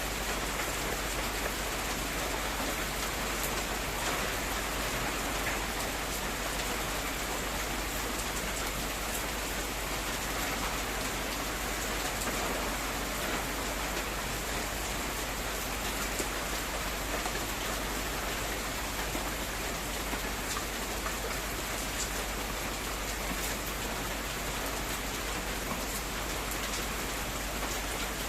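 Heavy rain falling steadily, a dense even hiss with the odd sharper drop hit standing out now and then.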